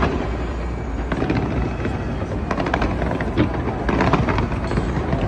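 Fireworks going off in quick succession: a continuous low rumble of bursts with crackling on top.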